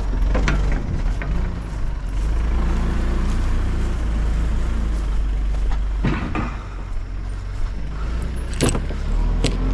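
A vehicle engine running steadily, with several sharp metal clanks: one just after the start, then more at about six seconds, near nine seconds and at the very end.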